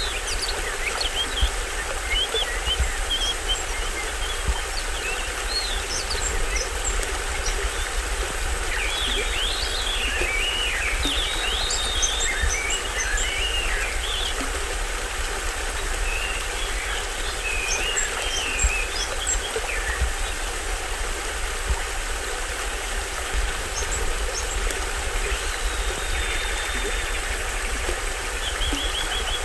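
A small stream splashing steadily over a little waterfall, with tropical forest birds chirping and calling over the water, their calls coming in clusters in the middle and again near the end.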